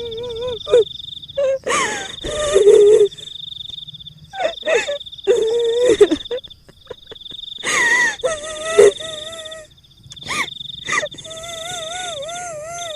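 Horror sound effect of a kuntilanak ghost: a woman's high, drawn-out wailing cries with a quavering pitch, repeated several times. Short sharp dog barks break in between, over a steady high-pitched trill.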